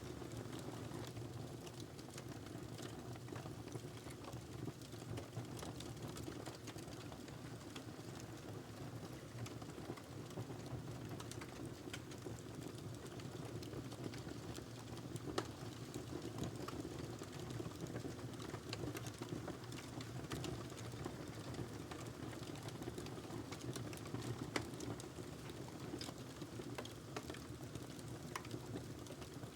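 Wood fire crackling in a fireplace: a steady low rumble of the burning logs with scattered small crackles, and two sharper pops about midway and near the end.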